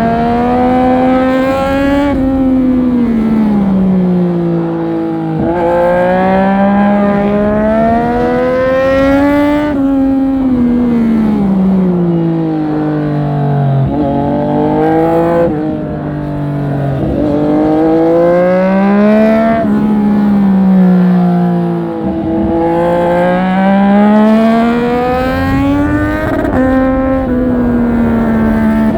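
Triumph Street Triple 765 RS inline three-cylinder engine under hard riding, its pitch climbing through the revs, breaking sharply at gear changes, then falling as it slows for corners, several times over.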